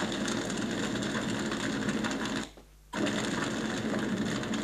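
Steady rapid mechanical clatter of a small machine running. It cuts out for a moment a little past halfway, then carries on.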